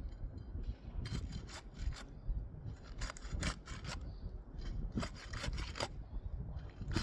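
Roofing shingles being pried and cut loose from their tar seal strips, short rasping scrapes in three bursts, one per shingle. Low wind rumble runs underneath.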